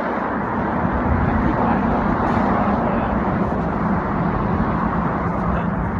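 Road traffic noise: a motor vehicle's engine and tyres running close by, a steady rush with a low hum that swells about a second in.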